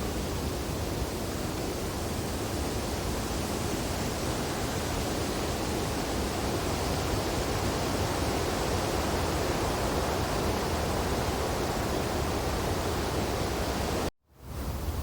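Steady wind rushing through tree branches in a snowstorm, an even noise with no distinct events. About 14 seconds in it cuts out for a moment and swells back.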